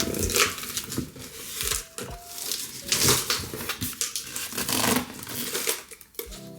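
Packaging being handled during unboxing: rustling, crinkling and tearing in repeated surges, with some light clatter.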